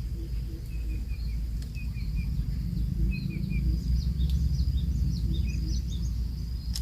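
Faint deep hoots of a coucal, short notes in twos and threes, among quicker high chirps of other small birds. A steady high insect whine and a low wind rumble run underneath.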